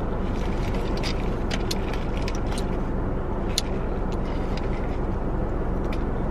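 Steady hum of an idling car, heard from inside the cabin, with a few light clicks and rustles over it.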